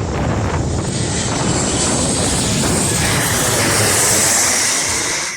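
Jet2 jet airliner passing close, its engines loud with a high whine that builds to a peak about four seconds in, over a low rumble.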